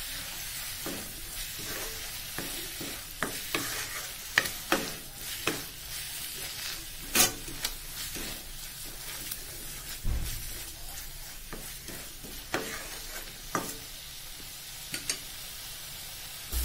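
Onion and ginger-garlic masala with ground spices sizzling in oil in a kadai, stirred with a spatula that scrapes and knocks against the pan at irregular moments. The masala is being fried down until the raw smell goes.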